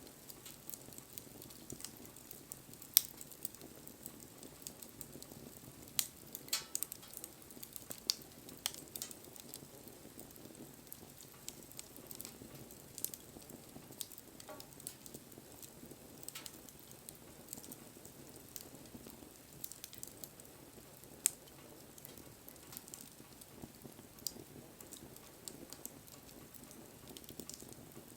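Wood bonfire crackling: scattered sharp snaps and pops over a low hiss of burning, with a handful of louder pops spread through.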